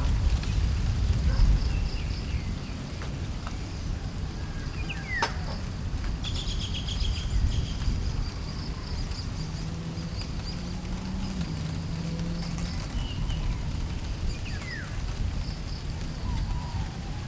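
Outdoor ambience: a steady low wind rumble, strongest at the start, with a few short falling bird chirps and a brief trill. A faint steady high insect hum runs underneath.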